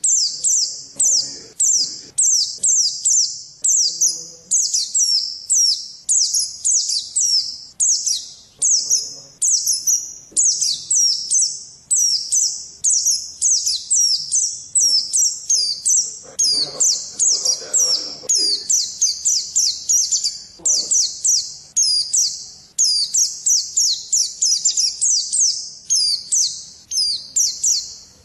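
Pleci (white-eye) songbird singing a fast, unbroken stream of short, high chirping notes, many each second, each note sliding downward.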